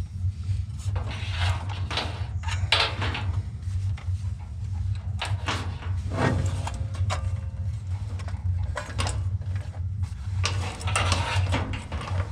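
Clicks, rattles and scraping from tools and metal parts being handled while working on a furnace, over a steady low hum.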